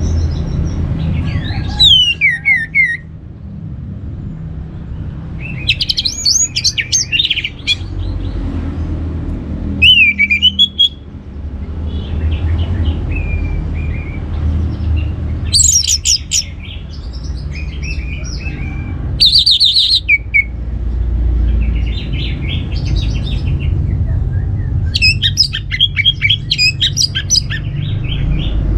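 Orange-headed thrush singing in short bursts of rapid, varied high notes every few seconds, over a steady low rumble.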